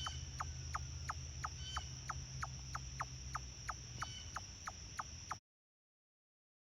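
Chipmunk chip calls: a steady run of short chips, about three a second, each falling in pitch, over a steady high-pitched whine. The sound cuts off suddenly near the end.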